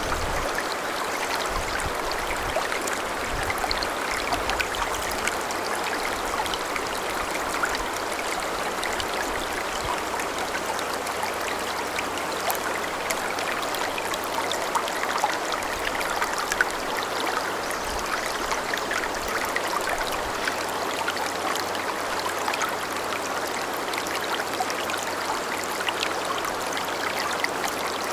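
Shallow snowmelt-fed mountain river babbling steadily, a continuous rush of flowing water.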